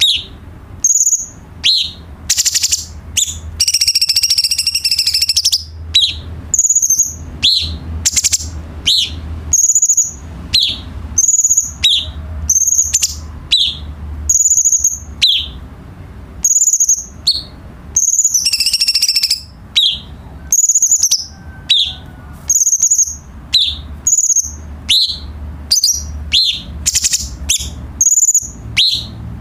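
Cucak cungkok singing: short high calls repeated about once a second, each a quick sliding note followed by a higher note, with two longer chattering phrases, one about three seconds in and one near two-thirds through. A faint low hum runs underneath.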